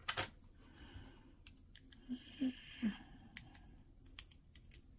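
Snap-fit plastic parts of a Bandai 30 Minutes Missions model kit being handled and pressed together by hand: a scatter of light, sharp plastic clicks and taps.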